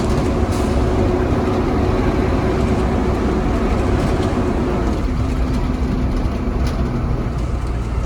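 2017 Blue Bird Vision school bus driving, heard from inside the cabin: a steady engine and road rumble. An engine whine steps down in pitch about five seconds in.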